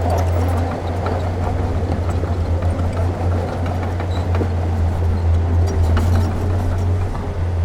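Diesel engine of a Komatsu D31P bulldozer running steadily, a constant low drone, with faint clanks over it.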